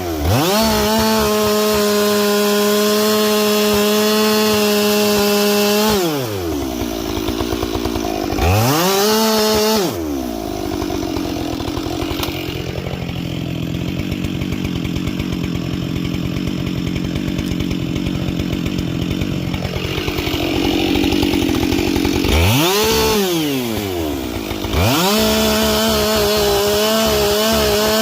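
Husqvarna 572 XP two-stroke chainsaw with a carbide chain, running at high revs. It drops off and revs back up around six to ten seconds in, runs lower and quieter for about twelve seconds in the middle, then revs up and falls back near the end before running at high revs again.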